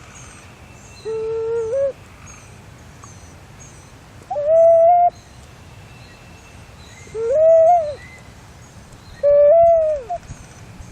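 A bird's clear, whistled hoot-like call, just under a second long, repeated four times a few seconds apart. Faint high chirping of small birds runs underneath.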